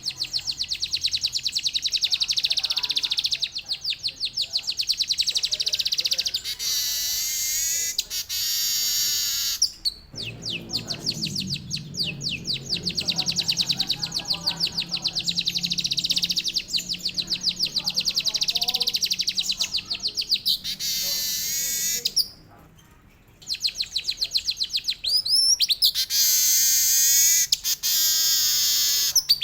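Manyar (weaver bird) singing long rolling trills of rapid repeated high notes, in the canary-like style that is valued for tutoring other songbirds, with a brief pause about two-thirds of the way through.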